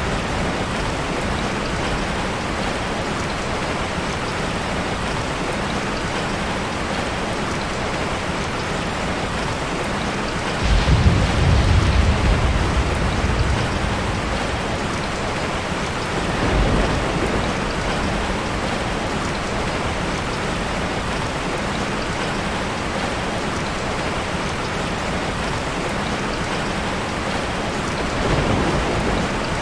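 Steady heavy rain, with a loud roll of thunder breaking in about eleven seconds in and rumbling for several seconds, and fainter rumbles of thunder twice later on.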